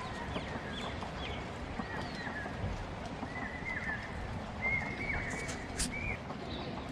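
Small birds chirping repeatedly in short, quick calls over a steady low background noise, with a couple of sharp clicks about five to six seconds in.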